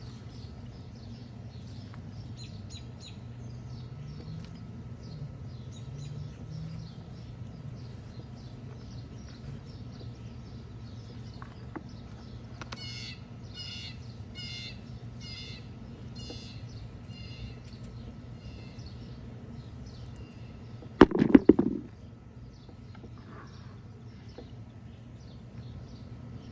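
Songbirds chirping, with one bird giving a run of about ten evenly spaced notes, two a second, about halfway through. About three quarters of the way in comes a brief loud clatter and rustle, the loudest sound here.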